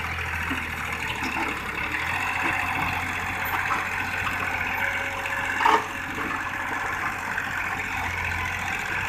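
A vehicle engine running steadily, with one short knock a little over halfway through.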